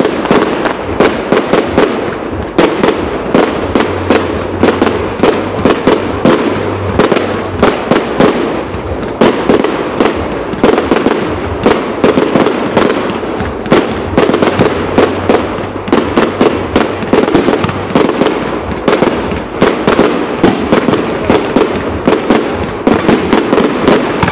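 Fireworks going off in a rapid, continuous barrage: sharp bangs several times a second over steady crackling.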